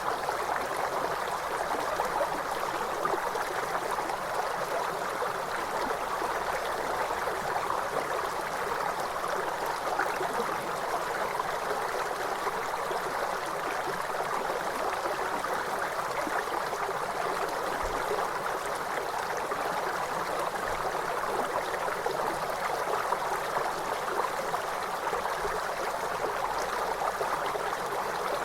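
River water flowing steadily, an even splashing and gurgling noise that holds without change.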